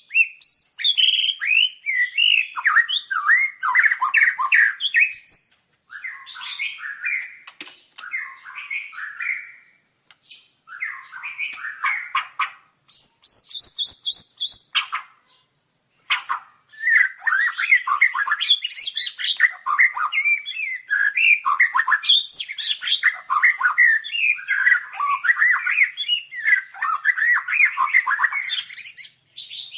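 White-rumped shama (murai batu) singing: long runs of quick, varied whistled phrases with a few short pauses, and a fast, high run of repeated notes about halfway through.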